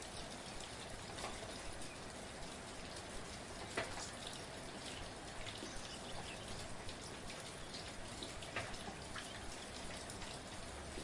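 Soft, steady rain falling, with individual drops ticking close by now and then, the loudest about four seconds in.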